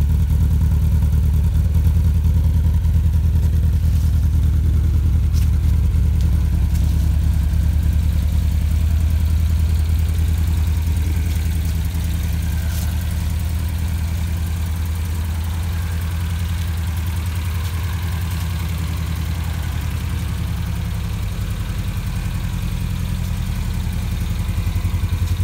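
1970 Volvo 1800E's fuel-injected B20E four-cylinder engine idling steadily through its sport exhaust, warming up after a cold start. It gets a little quieter through the middle and comes back up near the end.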